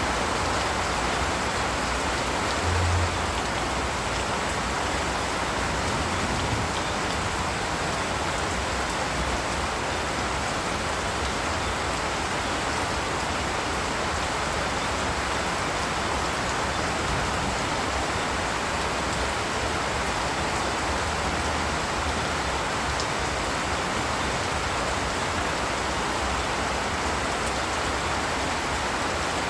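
Steady rain falling, an even hiss of drops. A brief low thump about three seconds in.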